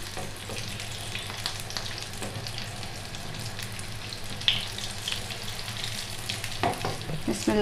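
White chickpea and potato kababs shallow-frying in hot oil in a nonstick pan: a steady sizzle, with a few light taps of a nylon spatula near the middle as the patties are turned.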